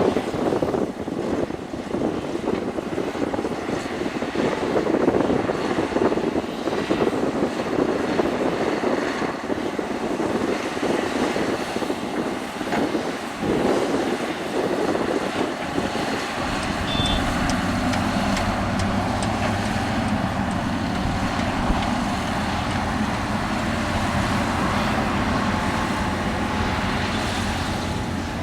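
Heavy diesel construction machinery running, with wind buffeting the microphone for the first half. About halfway through the sound changes to a steadier, lower engine hum.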